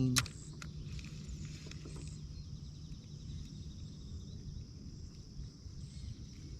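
Quiet outdoor ambience: a single sharp click at the very start, then a low steady rumble with a faint hum.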